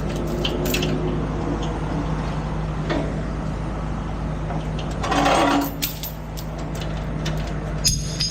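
Heavy tow truck's diesel engine running steadily under load, heard from inside the cab, with a brief louder noise about five seconds in.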